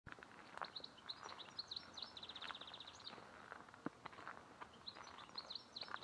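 Songbird singing outdoors: quick chirping phrases that each end in a fast, even trill, heard twice, with faint scattered ticks and a soft tap a little before four seconds.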